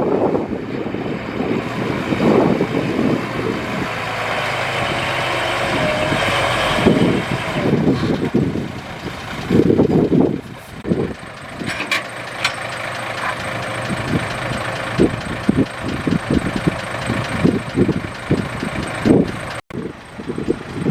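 Heavy diesel earthmoving machinery running at work, with wind buffeting the microphone.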